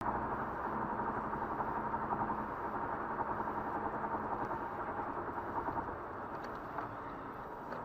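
Steady vehicle engine and road noise that starts abruptly and eases slightly about six seconds in.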